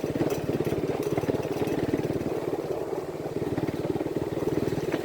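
Vehicle engine running steadily while being driven, with a fast, even pulsing throb.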